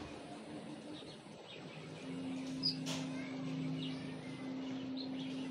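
Birds chirping now and then in short, scattered calls over a steady low hum that sets in about two seconds in, with one sharp click near the middle.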